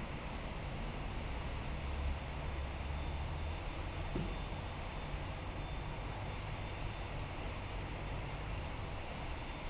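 Jet airliner engines rumbling steadily at a distance, with the low rumble swelling briefly about two seconds in.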